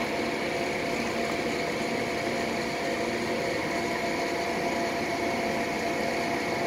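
Amtrak passenger train standing at the platform, humming steadily from its coaches' air-conditioning and the locomotive's head-end power supply. The hum holds several fixed tones over an even noise.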